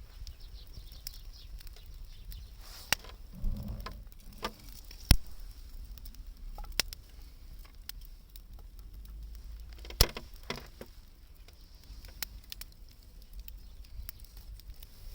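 Wood fire burning, with sharp crackles and pops from the burning wood at irregular intervals; the loudest pops come about five and ten seconds in.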